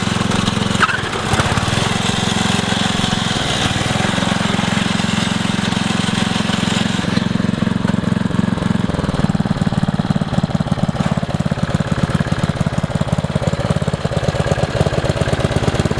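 MTD lawn tractor engine running hard during burnouts. About seven to nine seconds in it eases off to a slower, evenly pulsing run.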